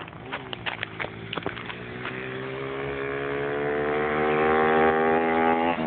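107 cc pit bike engine accelerating, growing steadily louder with its pitch climbing slowly, a brief dip in the note near the end. A few sharp clicks in the first second or so.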